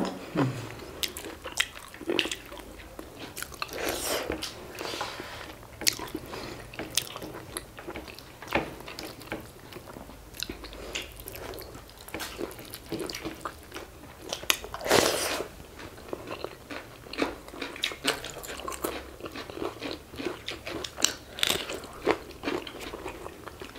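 Two people eating rice and pork curry by hand, with steady close chewing, crunching and irregular wet mouth clicks and smacks. There is one louder burst about fifteen seconds in.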